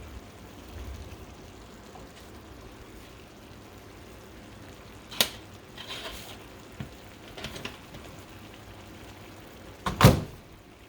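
Plastic microwave rice steamer being handled with a hot pad: a sharp knock about five seconds in, a few light ticks, and a louder knock near the end as it is set down, over a faint steady hiss.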